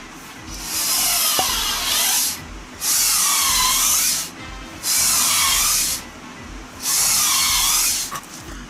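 A handheld power tool working wood in four short runs, each about a second and a half long and about two seconds apart, its pitch dipping and rising within each run.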